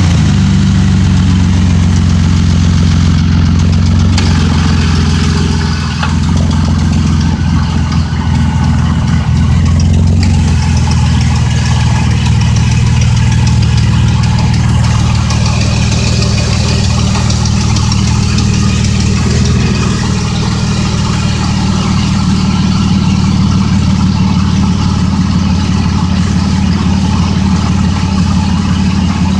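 Pickup truck engine idling steadily just after being started.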